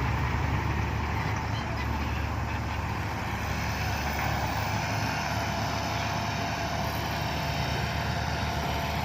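Six-wheel dump truck's diesel engine running steadily.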